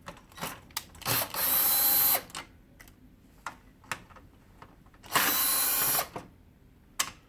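A small power screwdriver runs in two steady bursts of about a second each, a few seconds apart, with small sharp clicks from handling the printer parts in between.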